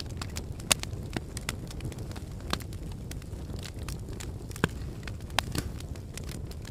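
Lava flow crackling as it moves: irregular sharp cracks and clinks over a steady low rumble.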